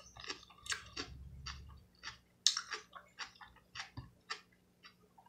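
A person chewing seafood close to the microphone: wet mouth smacks and clicks at an uneven pace.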